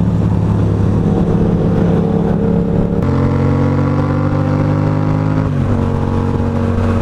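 Yamaha FZ-07 parallel-twin motorcycle engine running at freeway speed; about three seconds in the pitch steps up and climbs slowly as it accelerates, then drops with a gear change near the end.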